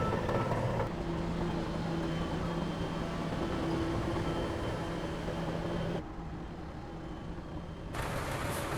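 Heavy diesel machinery engine running steadily. About six seconds in, the sound turns muffled for about two seconds, then comes back as before.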